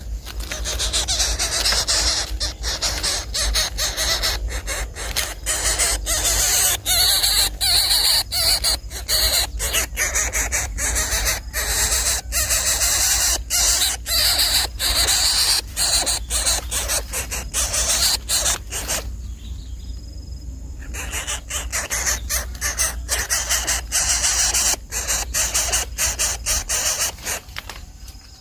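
Coucal chicks giving harsh, raspy begging squeals in a rapid run of calls broken by short gaps, with a brief pause about two-thirds of the way through.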